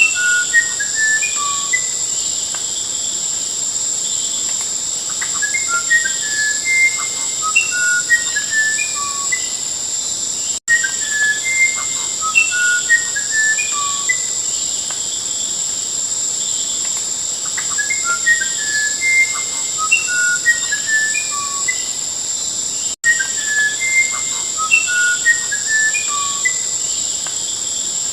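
A songbird whistling phrases of short, clear notes at varying pitches over a steady high-pitched insect trill. The same recording repeats as a loop, with a brief dropout to silence about 10 seconds in and again about 23 seconds in.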